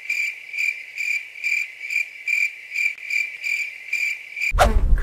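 Crickets chirping, a steady high pulsing chirp about three times a second, cutting off suddenly near the end.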